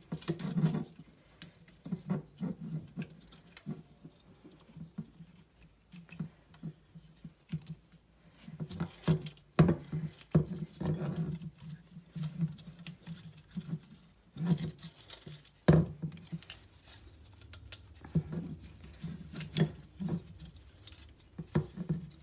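Hands handling a pine cone and string while tying the string around the top of the cone: irregular rustling, scraping and small taps.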